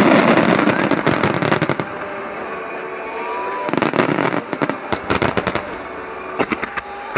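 Aerial firework shells of a starmine bursting in rapid volleys: a dense run of bangs and pops at the start, a quieter stretch, another dense run about four seconds in, then scattered pops near the end.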